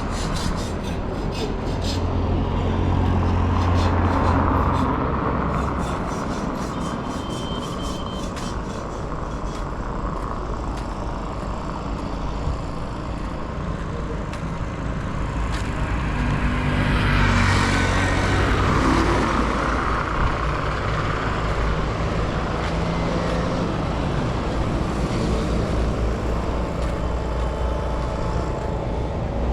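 Street traffic: motor vehicles running and passing, with a low engine rumble. Two louder passes swell up, one a few seconds in and one a little past the middle.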